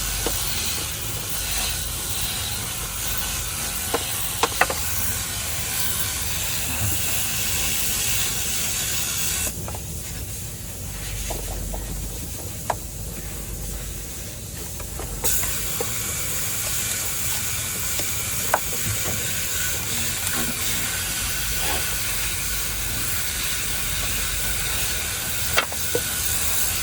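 A cleaning jet hissing steadily as it sprays in an engine bay. The upper hiss eases off for about six seconds in the middle, and a few light clicks stand out.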